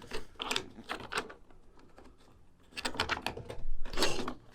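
Hard plastic trim clips and covers clicking and knocking as they are handled and pushed into place: a few quick clicks, a short pause, then another cluster of clicks and a louder scrape.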